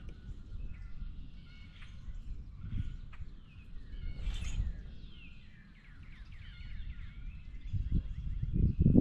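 Birds chirping and calling again and again in short, quick notes over a low rumble. Low thumps come near the end and are the loudest sound.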